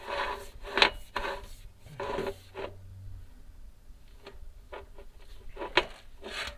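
Chimney inspection camera scraping and rubbing against the clay flue tile as it is lowered down the flue, in irregular rasping stretches with two sharper knocks, about a second in and near the end.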